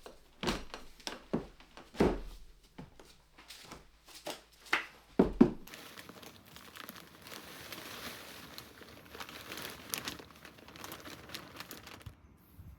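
Pieces of wood knocking and being set down, a string of sharp knocks with the loudest near the middle. Then a steady rustling, scraping noise for about six seconds that stops abruptly near the end.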